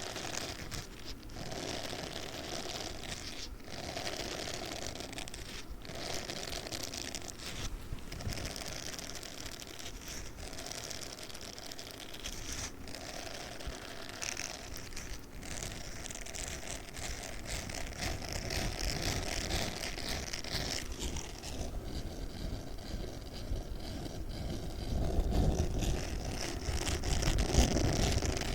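Pink spiky sponge handled close up, a continuous scratchy rustling broken by short pauses about every two seconds. From about two-thirds of the way through it grows louder and deeper.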